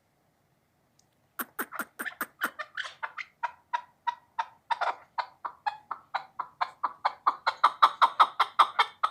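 Chukar partridge calling: a long run of short repeated chuck notes, about four a second, starting about a second and a half in and growing louder toward the end.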